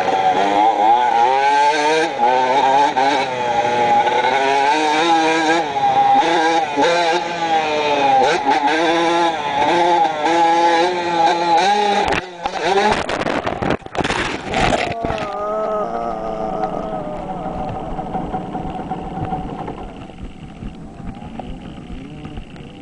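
Dirt bike's engine revving up and down as it is ridden, recorded on a helmet camera. About twelve seconds in come a few seconds of loud knocks and crashing as the bike crashes. After that the engine runs on at a steady lower note that slowly fades.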